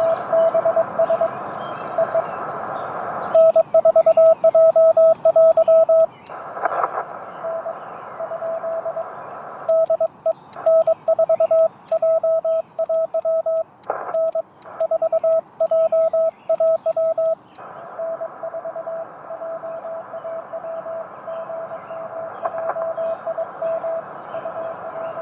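Morse code (CW) from a Yaesu FT-891 ham radio transceiver: a steady tone of about 650 Hz keyed on and off in dots and dashes over constant band hiss. Two stretches of louder, sharper keying with faint clicks, about three seconds in and again from about ten to seventeen seconds, alternate with fainter keyed signals.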